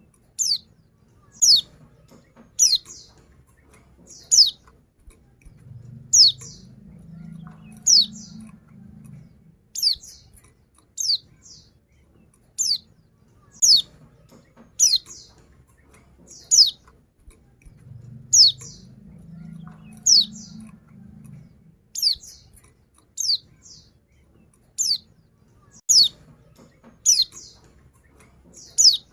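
Female white-eye (pleci) repeating short, high call notes that sweep downward, about one call a second.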